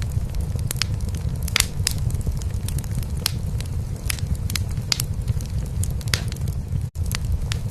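A cat purring with a steady low rumble, mixed with a wood fire crackling in a fireplace with sharp, irregular pops. Both cut out for an instant about seven seconds in.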